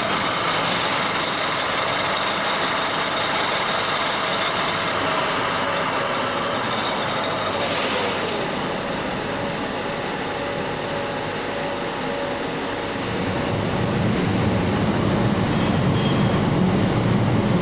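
Metal lathe running at 1250 rpm, turning a 19 mm hexagon bar of grade 45 steel into a bolt: a steady machine whir with a few humming tones. About three-quarters of the way through, a deeper hum joins in and the sound grows a little louder.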